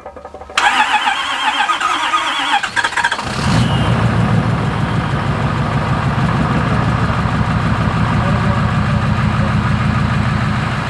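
Ford Power Stroke V8 turbo-diesel cranking on the starter for about three seconds, then catching and settling into a steady idle. This is the rebuilt engine being started for the first time.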